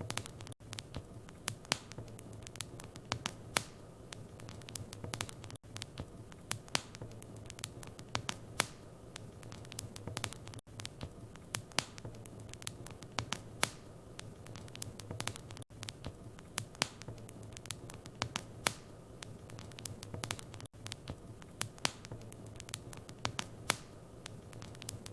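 Wood fire crackling in a fireplace: frequent sharp pops and snaps over a soft rush of burning, with a steady low hum beneath. Brief gaps break the sound about every five seconds.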